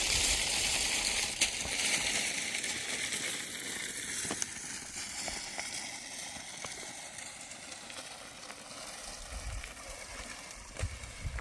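Steady rushing hiss like running water that slowly fades, with scattered light clicks.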